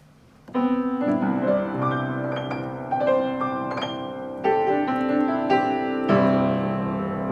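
Piano playing a highlife groove in C: a 1-6-2-5 chord progression, with new chords struck every second or two and held. The playing starts about half a second in.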